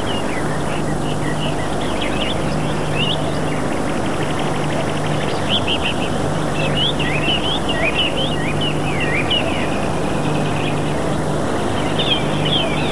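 Birds chirping in quick, short rising and falling calls, mostly around the middle and again near the end, over a steady hiss with a low hum that comes and goes.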